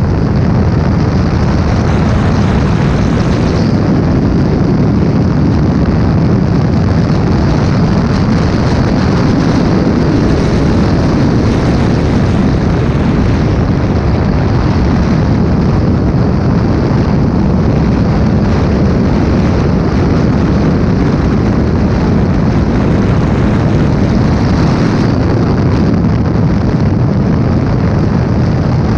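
Porsche 917/10 Can-Am car's turbocharged flat-12 running steadily at speed, heard from a helmet camera with heavy wind noise on the microphone.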